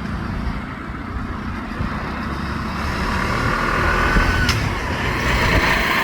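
Road traffic noise: a steady low engine rumble that grows louder about halfway through, with a brief high tone and a click near the middle.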